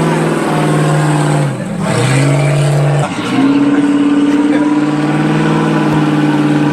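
Car engine held at high revs during a drift, its note dipping briefly twice and then settling at a higher steady pitch.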